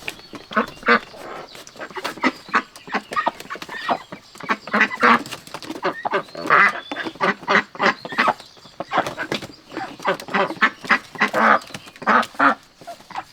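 A crowd of ducks quacking, many short harsh calls overlapping in quick succession without a break.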